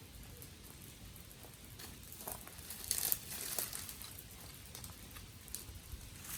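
Dry twigs and sticks crackling and snapping in scattered small pops, with a louder, denser burst of crackling about three seconds in.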